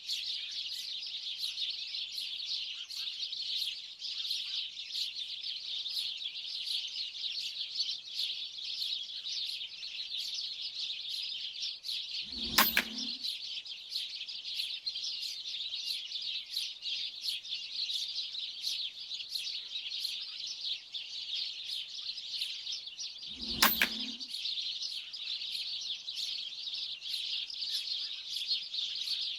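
A large flock of birds chirping and chattering without a break, with two air-rifle shots firing 4.5 mm slugs, the first about halfway through and the second about eleven seconds later.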